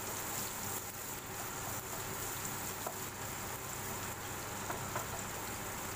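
Julienned ginger sizzling in hot oil in a wok: a steady frying hiss, with a few faint ticks as it is stirred.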